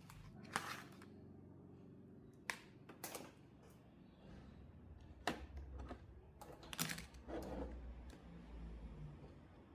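A handful of sharp clicks and knocks, irregularly spaced a second or two apart, over a faint low hum.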